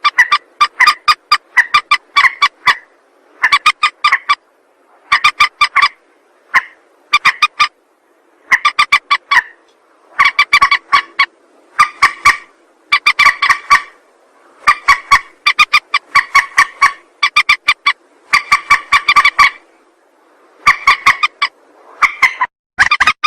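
Repeated call of a mandar (rail), played as a lure: bouts of rapid, clicking notes, each bout about a second long, repeated over and over with short gaps.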